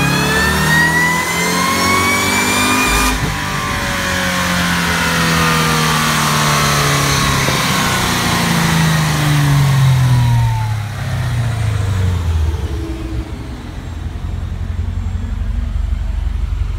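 Cadillac CTS-V's supercharged 6.2-litre LSA V8 at the top of a full-throttle dyno pull: revs climb with a high whine for about three seconds, the sound changes abruptly, and the revs then fall away steadily over several seconds to a low rumble near idle.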